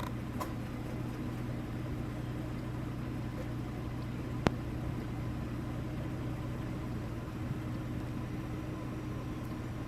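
Minivan engine running steadily at idle, a low hum heard from inside the cabin, with one sharp click about four and a half seconds in.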